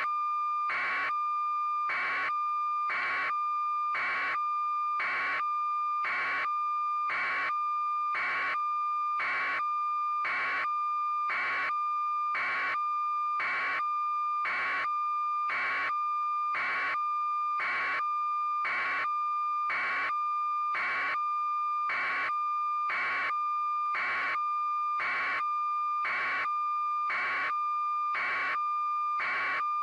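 A steady, unbroken electronic tone with a short pulse repeating evenly about once a second.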